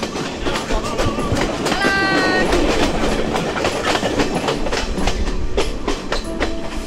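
Passenger train running, its wheels clacking steadily over the rail joints, with a short horn blast about two seconds in.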